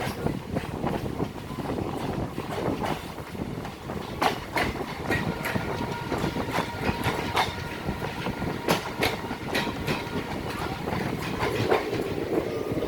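Passenger train running on the rails: a steady rumble with wheels clattering and knocking irregularly over the track.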